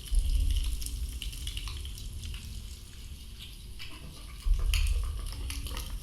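Underwater recording of a healthy coral reef: a dense, continuous crackling of tiny clicks and pops. Deep low rumbling swells come in at the start and again about four and a half seconds in.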